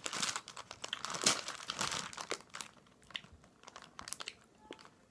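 Plastic candy bag crinkling as it is handled, busy for the first two or three seconds, then only occasional crackles.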